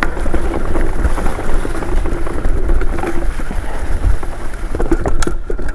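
Mountain bike riding over rough trail: wind buffets the camera microphone, the tyres rumble and the bike rattles with scattered clicks, and a few sharp knocks come near the end.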